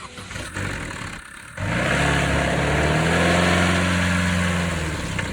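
Opel Astra 1.4 petrol engine turning over on the starter, catching about a second and a half in, then running loud for about three seconds, rising in pitch and falling away near the end. It is a failing engine that dies within seconds of starting, which the owner takes for an engine that is finished.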